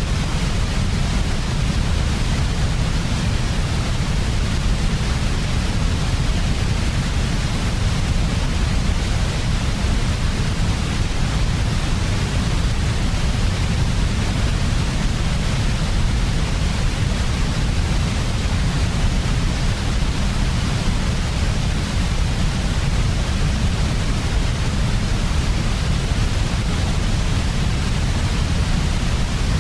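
Steady, unchanging sleep white noise: a continuous generated hiss with a deep rumble in the low end.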